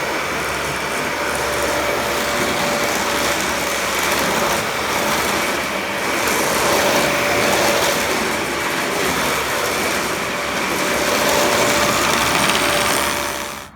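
An engine running steadily, a loud even noise with a faint high steady whine, cutting off abruptly near the end.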